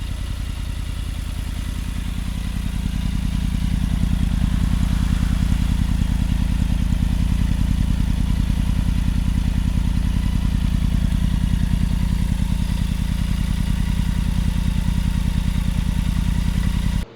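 Triumph Tiger 900's three-cylinder engine running through an Akrapovic exhaust: a deep, burbling, evenly pulsing exhaust note. It grows louder over the first few seconds, then holds steady, and cuts off abruptly near the end.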